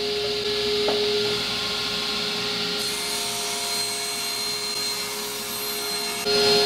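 Woodworking power tool running and cutting wood: a steady motor hum with the noisy rasp of the cut. The sound changes abruptly about three seconds in.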